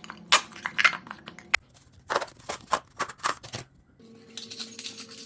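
A cup being cut with scissors: a run of sharp snips and clicks. About four seconds in, this gives way to a steady low hum with crackly rustling.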